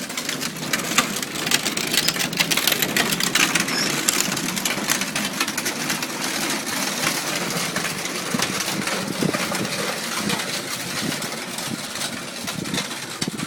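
Ride-on toy tractor driving across grass, running steadily with a dense rattling crackle from its motor and wheels.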